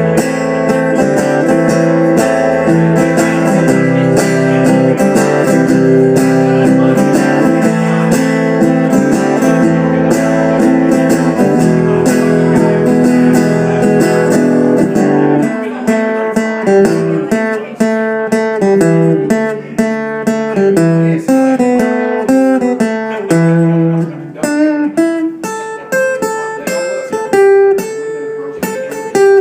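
Guitar instrumental break in a blues-tinged song: strummed chords for about the first half, then single picked notes of a lead line.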